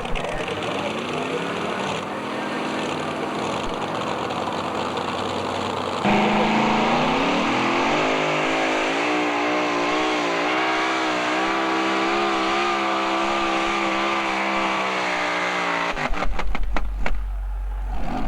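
Two-wheel-drive pulling truck's engine at full throttle during a pull. It revs up, then jumps louder about six seconds in and climbs to high revs, holding there. It cuts off suddenly near the end, followed by a few clicks and a low hum.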